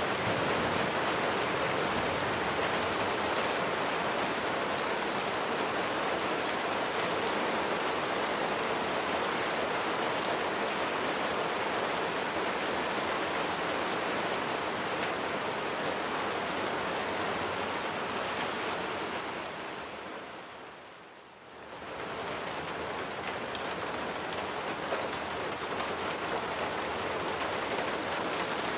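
Steady rain falling, with many fine drops pattering on a surface. About three-quarters of the way through it fades down to a short lull and then swells back to the same steady level.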